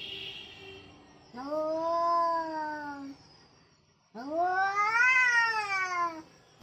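Domestic cat yowling angrily: two long drawn-out calls, the second rising and then falling in pitch.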